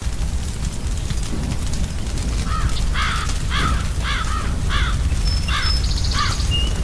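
A crow cawing about seven times in quick succession, starting a couple of seconds in and stopping shortly before the end. Underneath runs a steady crackling fire with a low rumble.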